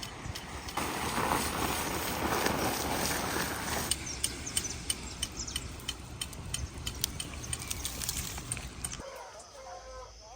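Outdoor rural ambience: a rush of noise for about three seconds, scattered sharp clicks over a low steady hum, and bird calls near the end.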